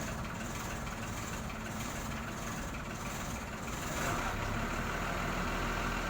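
A large vehicle's engine running steadily, growing slightly louder about four seconds in.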